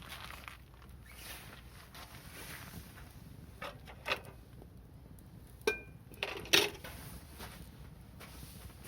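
A home bonfire with a few sharp cracks and knocks over a faint background, clustered in the middle; the loudest comes about two-thirds of the way in, and one carries a brief ringing tone.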